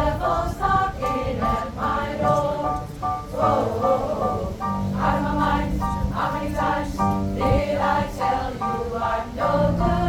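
Pop choir singing a wordless or unclear passage in close harmony over a musical accompaniment with sustained low bass notes.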